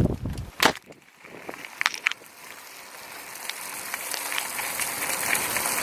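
Bicycle rolling along the trail: tyre and wind noise grows steadily louder as it picks up speed, with a few sharp clicks and knocks in the first two seconds.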